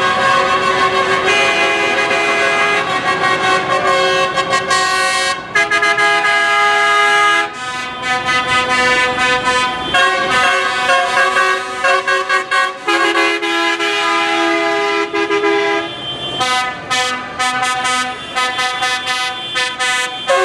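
Vehicle horns sounding from the passing parade tractors in loud held notes, the pitch changing every second or two, over the noise of the procession.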